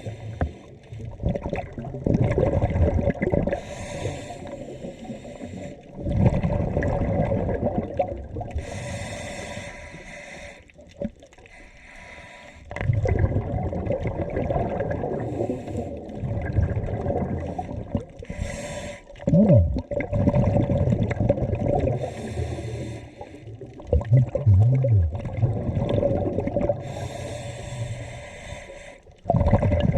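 Scuba diver breathing underwater through a regulator: short hissing inhalations alternate with longer rumbling streams of exhaled bubbles, about five breaths in all.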